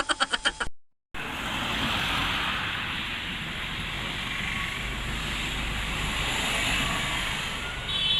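A steady rushing noise with no clear pitch, starting about a second in after a brief gap.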